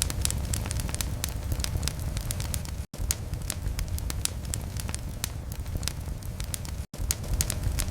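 Fireplace fire crackling: a dense, irregular stream of sharp pops and snaps over a steady low rumble of flame. The sound cuts out for an instant twice, about three and seven seconds in.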